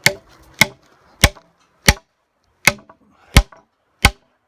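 Hammer driving a hand-forged iron spike into a pre-drilled hole in timber: seven sharp, ringing blows at a steady pace, about three every two seconds.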